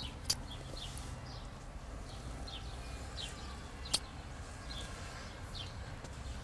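Birds chirping now and then over a steady low outdoor rumble, with two short sharp clicks, one just after the start and one about four seconds in.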